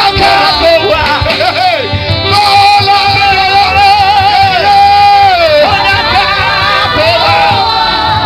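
Live gospel worship music: a lead singer holds long, wavering notes that slide down in pitch over a band with a steady bass.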